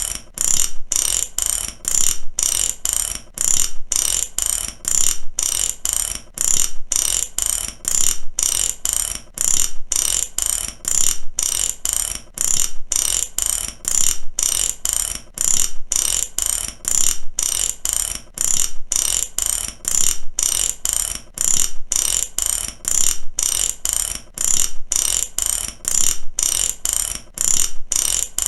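Mechanic's ratchet wrench clicking steadily, its pawl snapping over the gear teeth in quick runs of sharp metallic clicks about once a second.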